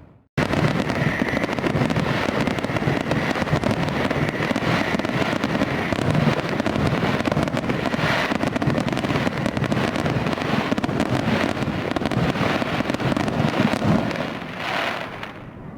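Fireworks: a dense, continuous crackling of many small bursts, starting after a brief silent gap and easing off near the end.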